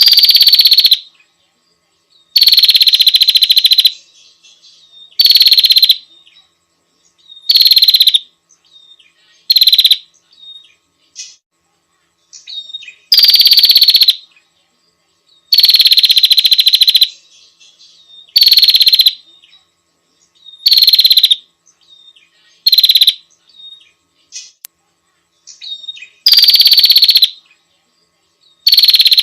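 Female prinia (prenjak) calling: loud, buzzy trilled calls about a second long, repeated every two to three seconds. It is the call a female gives to draw in a male, played as a lure.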